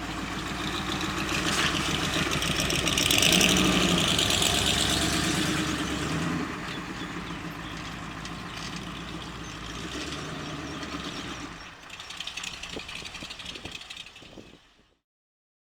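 The Jeep CJ5's 360 cubic inch V8 running through long-tube headers and glasspack mufflers. It grows louder over the first few seconds, peaks about three to four seconds in, then settles back to a steady run, and cuts off suddenly near the end.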